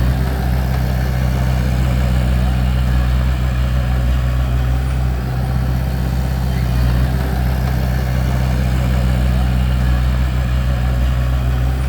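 Bulldozer's diesel engine running steadily, a low even drone that holds the same pitch throughout.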